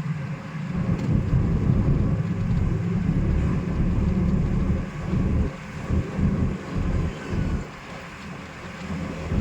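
Car on the move: a low, steady rumble of engine and road with wind buffeting the microphone. The rumble goes gusty and uneven in the second half, dipping lower near the end.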